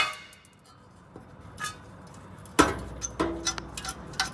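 Metal clanking from exhaust removal under a car: a sharp clank at the start, then a heavy knock about two and a half seconds in, followed by a run of quick metallic clinks and knocks.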